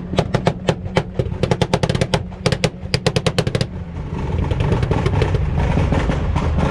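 A rapid, irregular string of loud sharp bangs, several a second, for nearly four seconds. Then a steady low engine rumble.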